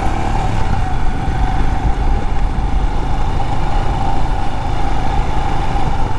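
Motorcycle engine running steadily while riding, over a dense low rumble of wind noise.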